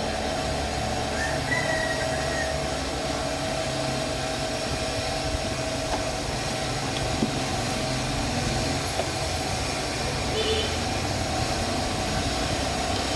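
A machine running steadily: a continuous rumbling noise under a constant mid-pitched whine, with a few faint clicks and ticks.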